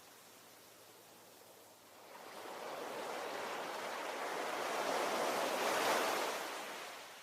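Ocean waves: a quiet lull, then a wave surges in and washes up from about two seconds in, loudest near the end before ebbing away.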